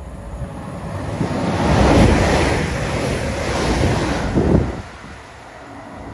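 East Midlands Railway Connect Class 360 electric multiple unit passing at speed: a rush of wheel and air noise that builds over the first couple of seconds, holds, then falls away sharply a little before the end.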